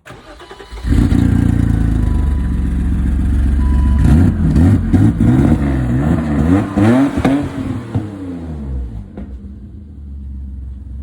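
BMW E34 535i's 3.4-litre M30 straight-six, muffler cut out, starting up: it turns over briefly, catches just under a second in and runs loud. It is revved several times, pitch rising and falling, between about four and eight seconds in, then settles to a lower steady idle.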